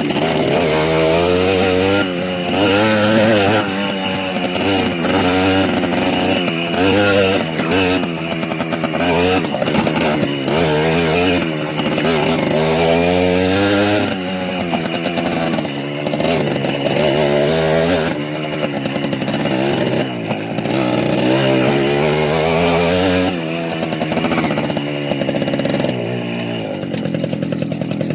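Small motorbike engine running under way, revving up and down repeatedly as the rider works the throttle and gears, easing off near the end.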